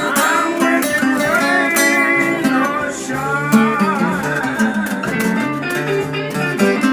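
Blues guitar music: a lead guitar line with bent, wavering notes over a sustained chordal accompaniment.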